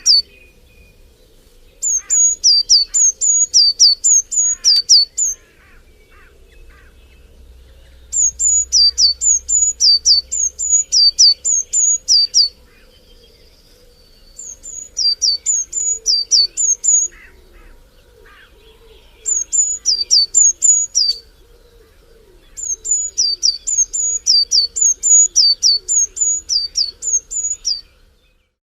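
A bird calling in repeated bouts of loud, high, down-slurred notes, about three a second, each bout lasting a few seconds with short pauses between. Fainter chirps from other birds sit underneath. The sound cuts off just before the end.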